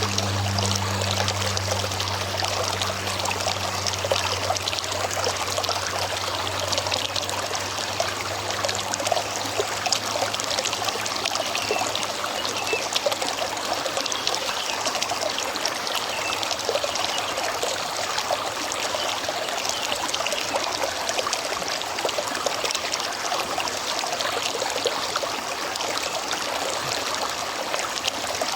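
River water flowing and trickling, a steady babbling rush full of small splashes. A low steady hum underneath fades out over the first few seconds.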